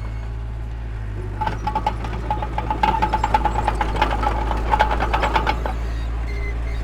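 Heavy diesel earthmoving machinery running with a steady low drone. From about a second and a half in until near the six-second mark, rapid metallic clanking and rattling rides over it.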